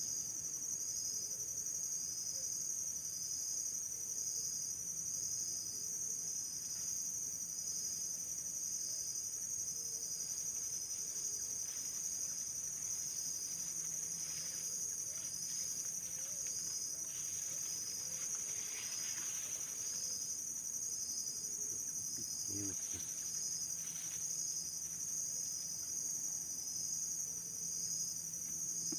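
Insects calling steadily in a high-pitched chorus, with a pulsing chirp repeating about once a second.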